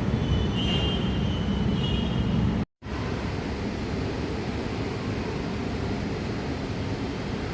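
Steady low rumble and hiss of vehicle noise, with a brief faint high squeal about half a second to two seconds in. The sound cuts to silence for a moment about three seconds in, then the same rumble carries on.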